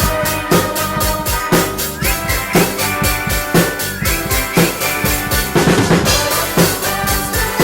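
Drum kit played along to a recorded song: a steady beat of bass drum, snare and cymbals over the backing music, with a quick fill a little before the end.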